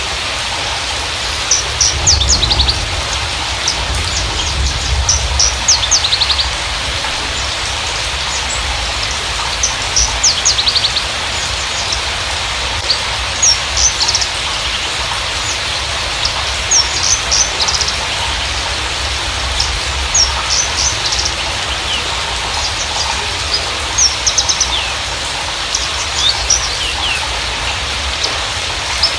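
Javan bushlark giving bursts of short, high chirps and trills every few seconds over a steady rain-like hiss.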